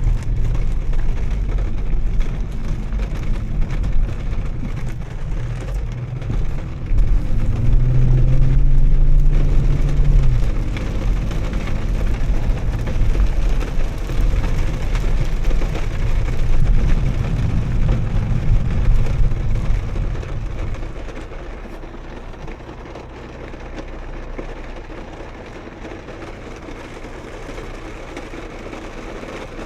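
Volvo S60 T6's turbocharged 3.0-litre straight-six with a Heico aftermarket exhaust, pulling hard twice, the engine note climbing about seven seconds in and again around sixteen seconds, then settling to a quieter steady cruise from about twenty seconds on.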